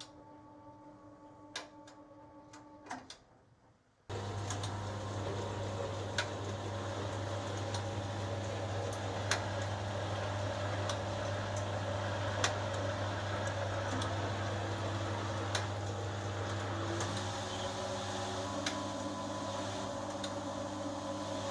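1980 HUWA Automatic Standard 4 washing machine: a few clicks and a faint tone, then about four seconds in a motor switches on suddenly and runs with a steady low hum, with occasional clicks over it.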